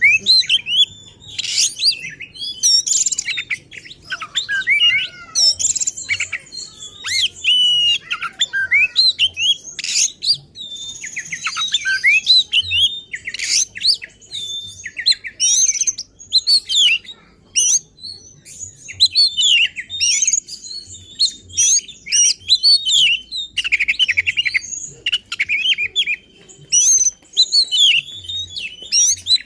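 Oriental magpie-robin (kacer) singing hard with hardly a pause: a rapid, ever-changing run of sharp whistles, trills and harsh notes, with borrowed phrases from its mimicked repertoire mixed in.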